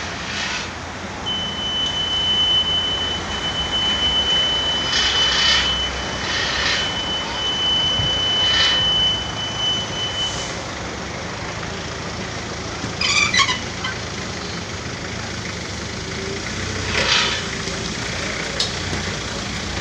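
Garbage truck running with steady road and traffic noise. A steady high whine holds for about nine seconds, and short hissing or rattling bursts come several times.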